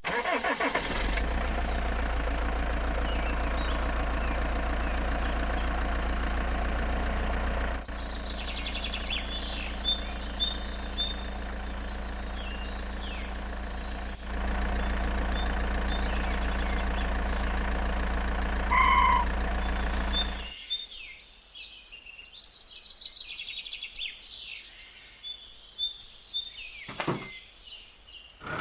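A small motor, likely the DIY mini tractor's, runs with a steady hum. It drops out for a few seconds about 8 s in, starts again, and stops for good about 20 s in. Birds chirp while it is off.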